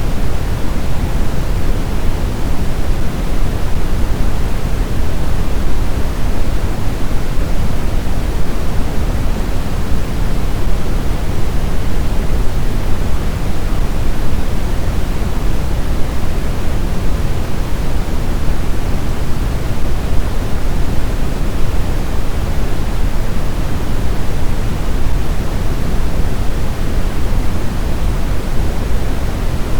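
Snowstorm wind: a steady, even rush of noise, deepest in the low end, with no gusts or breaks.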